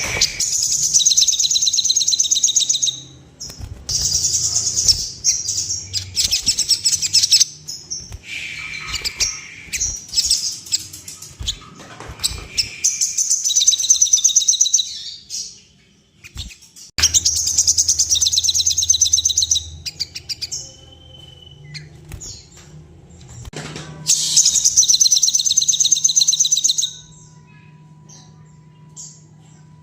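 A small bird singing in repeated bursts of fast, high-pitched trilled chatter, each lasting about three seconds, with short pauses between them.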